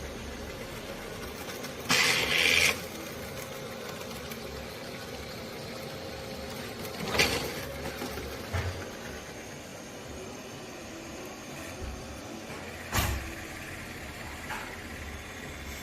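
Vacuum cleaner motor running steadily, broken by three short, louder bursts of noise about two, seven and thirteen seconds in; the first lasts under a second and is the loudest.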